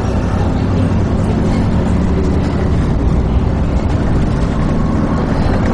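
Diesel engine of a Dennis Trident 2 double-decker bus running steadily, heard from inside the passenger cabin as a loud, even, low drone with road noise.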